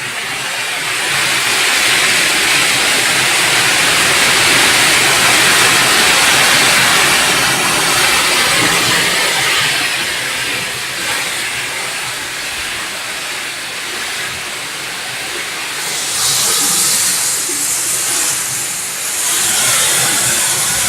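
Heavy rain pouring in strong wind: a steady, loud rushing hiss that eases a little midway and surges again with a brighter hiss about sixteen seconds in and once more near the end.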